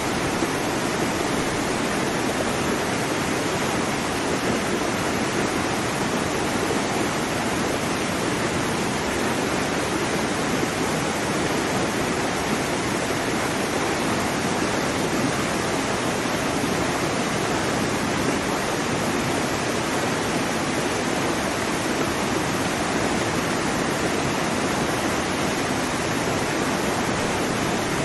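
Waterfall: falling water making a steady, unbroken rushing hiss with no changes.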